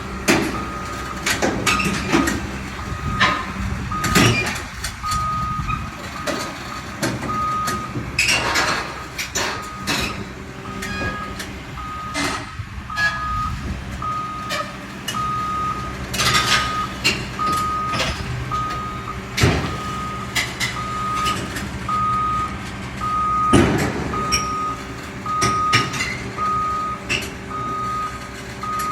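A truck's reversing alarm beeping steadily at an even pace, over the rumble of a running vehicle, with repeated sharp metallic knocks and clanks.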